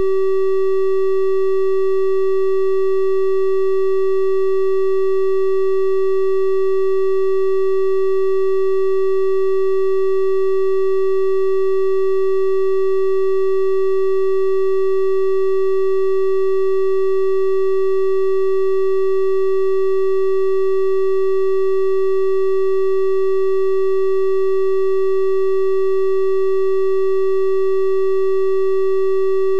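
A steady synthesized 384 Hz triangle-wave tone, held at one pitch and level, with faint higher overtones that give it a slightly brighter sound than a pure sine.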